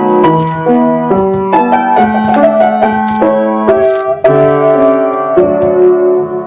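Piano or keyboard playing a melody of held notes over chords.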